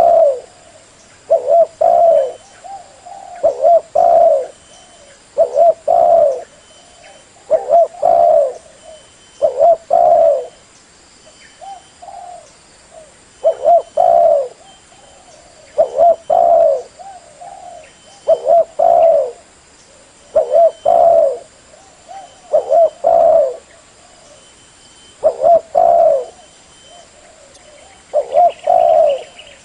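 Spotted dove cooing its song over and over: a short phrase of two or three low coos repeated about every two seconds. It is a lure call of the kind played to draw in wild doves.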